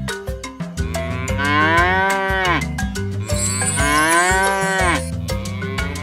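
Two long cow moos, each lasting about two seconds and dropping in pitch at the end, with a third beginning right at the end, over background music with a steady beat.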